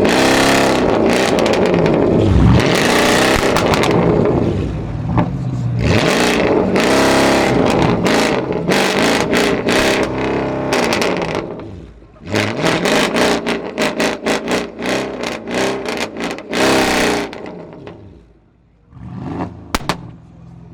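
Mercedes-Benz E500 W212's 4.7-litre twin-turbo V8, fitted with a custom downpipe and exhaust, revved hard several times, its pitch rising and falling in long sweeps. It then gives a quick run of short blips with sharp pops, and one last short rev near the end.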